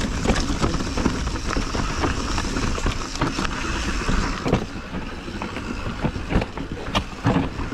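Mountain bike descending a trail: wind rushing over the helmet-camera microphone and tyres rolling over dirt and rocks, with frequent rattles and knocks from the bike over the bumps.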